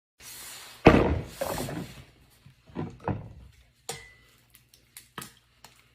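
A loud thump about a second in, then a second heavy knock, followed by several lighter knocks and clicks.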